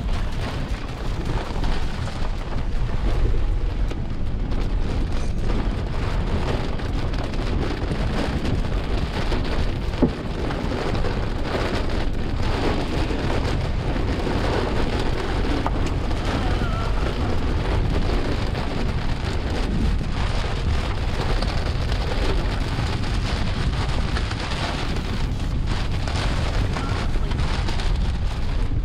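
Rain falling steadily, with a deep steady rumble underneath and a single sharp knock about ten seconds in.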